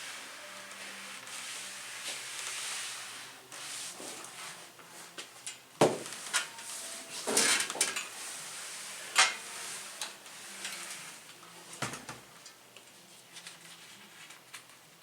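Steam iron hissing as it is pressed over fusible appliqué fabric, fading out after about three seconds. Then several sharp knocks and clatters of hard things being handled.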